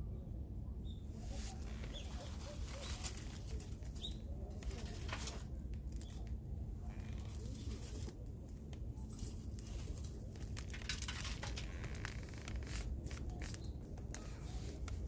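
Irregular crackling and rustling, many small sharp clicks coming unevenly, over a steady low rumble.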